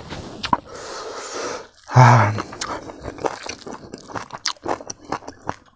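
Close-up chewing of smoked pork and rice eaten by hand, a run of small sharp clicks and mouth smacks, with one brief voiced sound about two seconds in.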